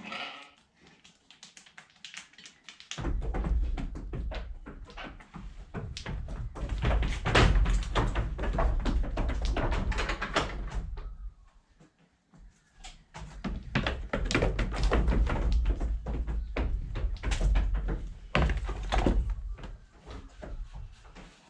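Many knocks, taps and clattering while a ewe is handled onto a grating, over a heavy low rumble on the microphone that drops out briefly about halfway through.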